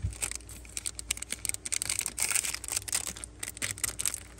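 Zippo lighters being handled, giving quick irregular clicks and taps with some rustling.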